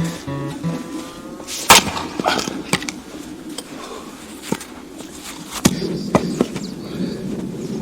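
Axe splitting firewood: a sharp crack about two seconds in, then lighter knocks of wood, and another strike past the middle.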